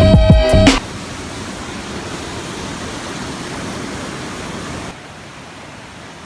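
Background music cuts off within the first second, then a waterfall rushes steadily, dropping in level about five seconds in.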